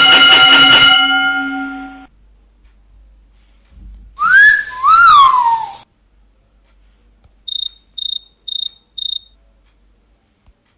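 A string of cartoon sound effects: a ringing tone with several pitches that fades out over about two seconds, then two quick whistled glides that each rise and then drop, and near the end four short high beeps about two a second.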